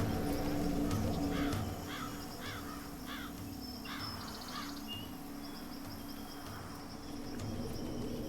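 A bird giving a run of about five short, harsh, crow-like calls, roughly two a second, over a natural outdoor background. A low steady drone fades out early on.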